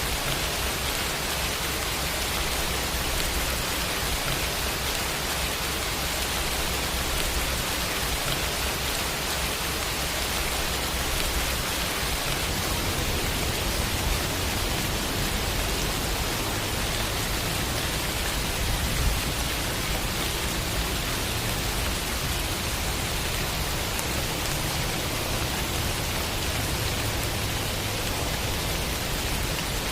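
Steady rain sound effect, an even hiss of falling rain without a break.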